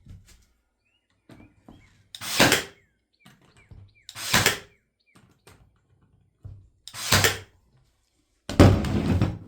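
Four loud knocks on the wooden birdhouse, about two to three seconds apart, as it is put together; the last is longer and rougher.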